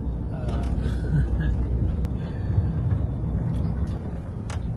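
Steady low rumble with a few faint, brief sounds above it.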